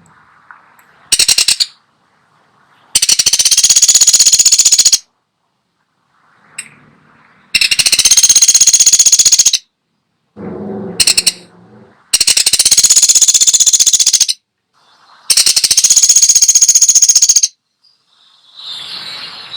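Pelatuk sampit woodpecker giving loud, rapid, high-pitched rattling trills of about two seconds each, four long ones and a short one, repeated every few seconds. A brief lower-pitched call sounds a little past halfway.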